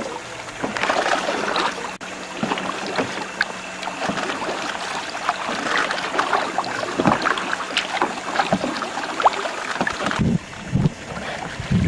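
Water splashing and lapping around a canoe on the move, a steady wash dotted with small irregular splashes. Gusts of wind hit the microphone with a low rumble near the end.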